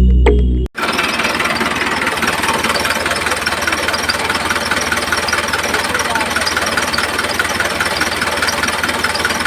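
Small engine running steadily at a fast, even beat, after a short bit of music that cuts off sharply under a second in.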